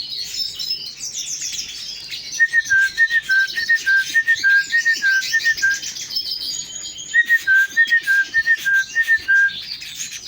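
Canaries and finches twittering, with a person whistling a repeated two-note high-low call, about three notes a second, in two bouts with a short pause between: the breeder's call to bring the birds to his hand.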